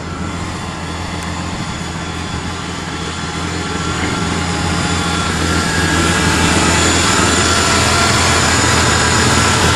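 A 1994 Chevy Blazer's 4.3-litre Vortec V6 runs steadily shortly after a cold start in sub-zero cold, growing gradually louder partway through.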